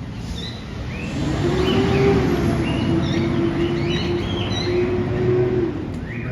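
Many caged birds chirping in short rising peeps, over a steady droning hum that swells about a second and a half in and drops away near the end.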